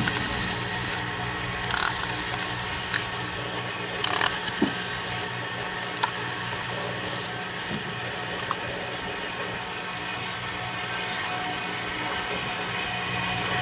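Scattered small clicks and knocks of hand tools and parts being handled while the soundbar is taken apart, over a steady background hum.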